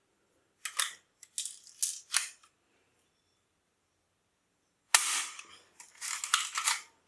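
Plastic toy gun firing and being worked: a few sharp clicks and snaps in the first two seconds, then a loud sharp snap about five seconds in, followed by a quick run of further clacks.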